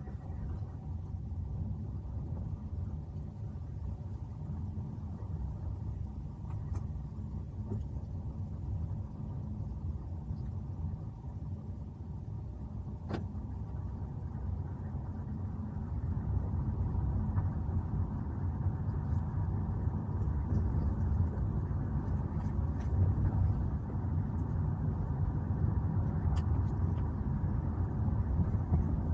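A steady low rumble that gets louder about halfway through, with a few faint clicks.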